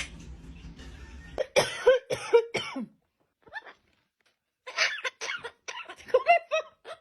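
A parrot imitating coughing: a run of about four short coughs about a second and a half in, then a second, longer run of short coughs from about five seconds in.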